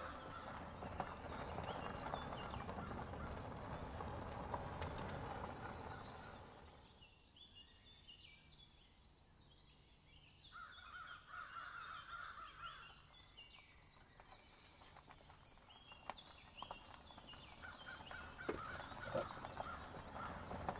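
Faint wild birds calling: short, high chirps repeat through the second half, with one longer, lower call about halfway. A soft, steady rushing noise fills the first third.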